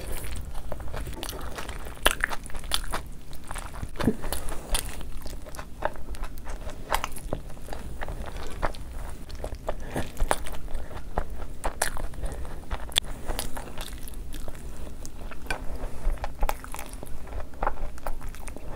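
Close-miked chewing and wet mouth clicks from a person eating a large mouthful of sauce-covered chicken animal style fries by hand. Many short, irregular sharp clicks run throughout.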